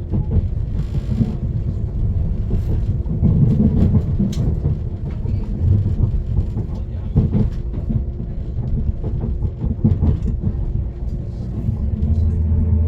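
Diesel multiple-unit passenger train running along the line, heard inside the carriage: a steady low rumble of wheels on rail with scattered knocks. Near the end a steady low drone grows louder.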